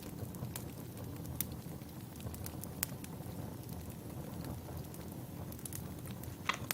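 Wood fire burning, with scattered sharp crackles and pops over a low steady rumble.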